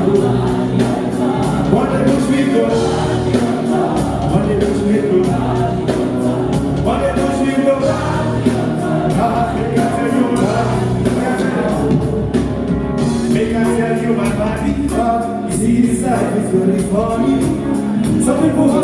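Live stage music with singing over a backing band, played loud through a sound system.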